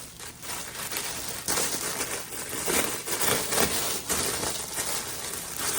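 Irregular rustling and crinkling as packaging and the fabric of a dress are handled.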